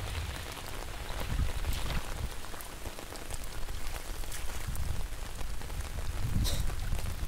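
Heavy rain falling onto muddy floodwater: a steady patter with many sharp individual drop hits scattered through it.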